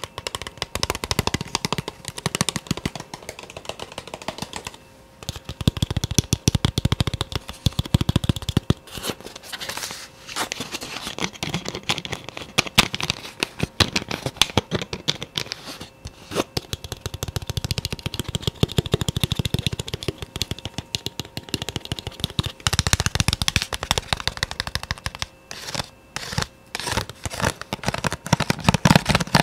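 Fast, dense ASMR tapping, many taps a second in rapid runs broken by a few brief pauses.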